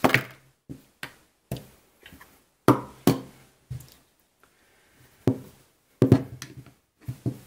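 Handling noise: a dozen or so irregular knocks and clacks as revolvers are picked up, moved and set down.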